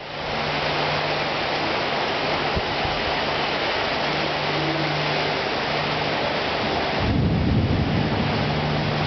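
Heavy rain pouring steadily during a tropical thunderstorm, with a low rumble of thunder swelling for about a second near the end.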